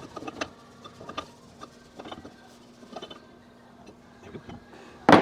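Light, irregular clicks and ticks of small metal engine parts and hand tools being handled, with one sharp knock near the end.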